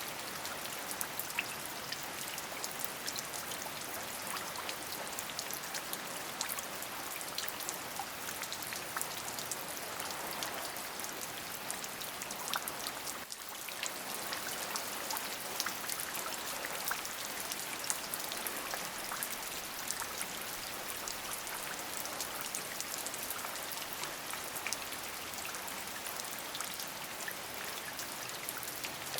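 Steady rain: an even hiss of rainfall with many distinct drop hits scattered through it. About thirteen seconds in it drops briefly in level.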